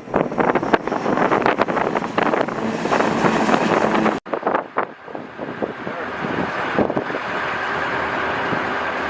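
Aircraft engine noise on a carrier flight deck mixed with heavy wind buffeting on the microphone. About four seconds in the sound cuts off abruptly and gives way to a softer, steadier rushing noise.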